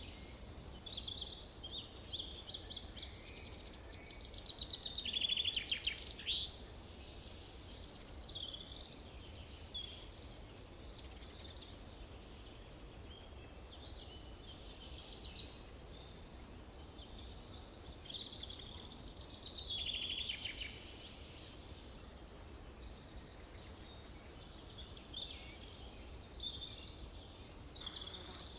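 Forest birdsong: several birds singing and calling with overlapping chirps, trills and whistles, louder about five seconds in and again near twenty seconds, over a faint low steady rumble.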